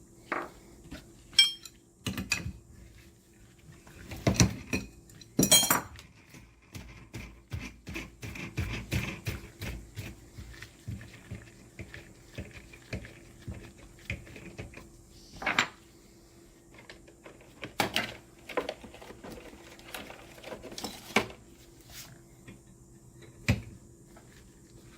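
Metal hand tools and shock absorber parts clinking, tapping and clattering on a workbench, in scattered sharp strikes with a few louder knocks, as a pair of chrome motorcycle shock absorbers is taken apart by hand.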